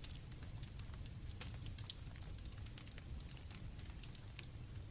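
Campfire crackling with scattered sharp pops over a low steady rumble, and crickets chirping in a thin steady high trill.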